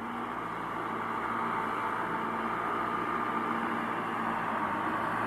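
Engine of a truck heavily overloaded with sugarcane, running steadily and slowly getting louder.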